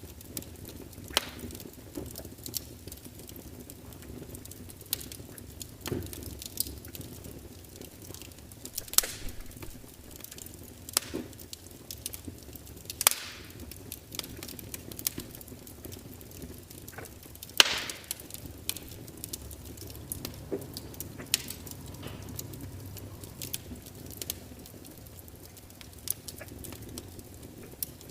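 Log fire crackling: irregular sharp pops and snaps from the burning wood over a steady low hiss, with a few louder cracks, the loudest about two thirds of the way through.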